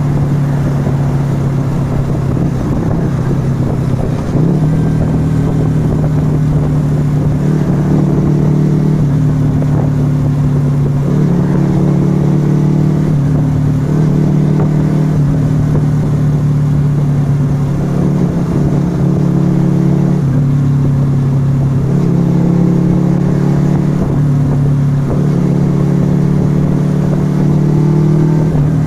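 Yamaha XV125 Virago's small air-cooled V-twin running through a Turbo Kit aftermarket exhaust while riding. The engine note holds steady, then shifts up and down in pitch several times, with a brief dip about four seconds in.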